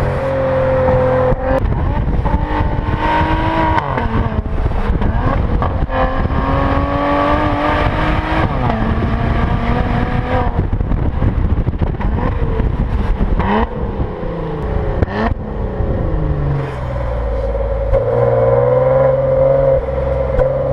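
Maserati Levante SUV's engine and exhaust pulling under acceleration, the note climbing and then dropping at several gear changes. In the last few seconds it settles to a lower, steadier note.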